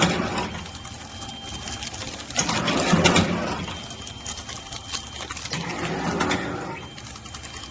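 Mini three-side-seal packaging machine running, with a steady hum and a louder mechanical cycle about every three seconds as it seals and cuts packs.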